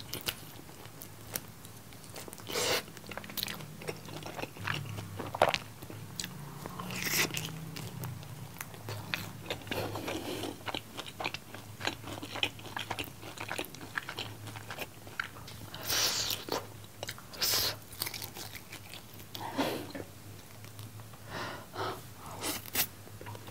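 A person chewing and biting Korean seasoned fried chicken and rice, with short irregular mouth sounds scattered throughout. A faint steady low hum runs underneath.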